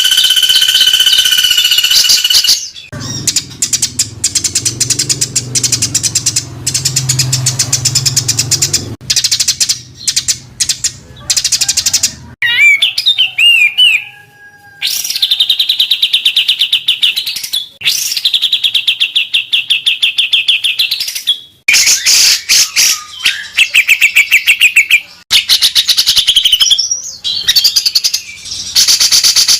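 Mixed songbird calls spliced back to back as a masteran tutoring track: a held whistled note, then long runs of rapid, harsh ticking and buzzy trills, the fast 'tembakan' phrases meant for caged songbirds to copy. A low hum runs under the calls from a few seconds in until about halfway.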